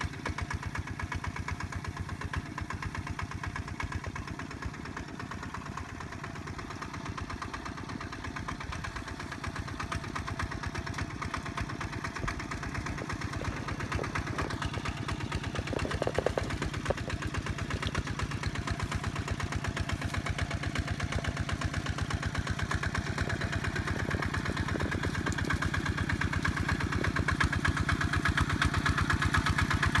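Kubota tractor's diesel engine running steadily under load, working a rice paddy, and growing gradually louder over the second half. A few brief knocks come about halfway through.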